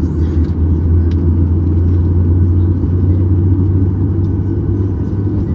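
Steady low drone inside the cabin of a Boeing 737-800 during pushback, from the jet's engines running, with a few faint ticks over it.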